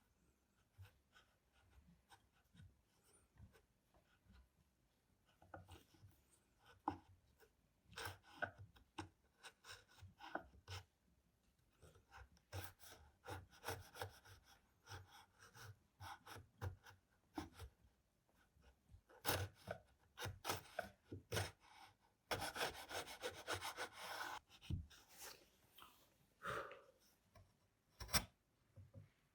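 Wood being worked by hand: short, irregular scraping and rubbing strokes, with a quicker run of strokes about 22 seconds in and a few sharp knocks.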